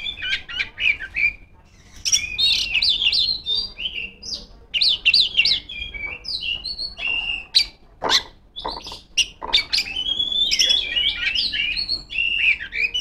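Oriental magpie-robin (kacer) singing loudly in rapid bursts of varied whistled and chirping phrases, a song stuffed with mimicked calls of other birds. There are short breaks between phrases and a few sharp clicks about eight seconds in.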